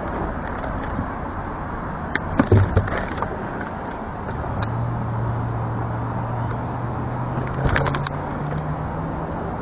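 Steady rushing outdoor background noise, with a few sharp clicks and knocks from handling gear while a bass is weighed. A low steady hum sets in about halfway and steps up slightly in pitch near the end.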